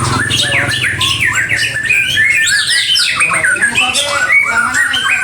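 Several songbirds singing at once, a dense run of quick chirps and trills overlapping one another.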